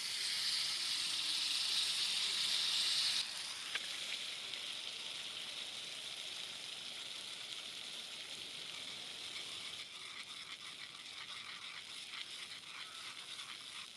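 Food frying in hot oil in a pan, sizzling loudly. The sizzle drops abruptly about three seconds in and carries on more quietly, with scattered crackles toward the end.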